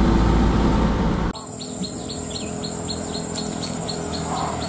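Road and engine rumble inside a moving vehicle's cabin for about the first second, then an abrupt cut to outdoors: a bird chirping rapidly, about four short calls a second, over a steady high-pitched insect drone.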